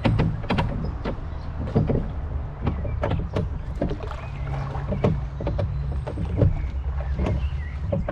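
Rowboat being rowed: oars dipping and splashing at an uneven pace, with sharp knocks among the splashes, over a steady low wind rumble on the microphone.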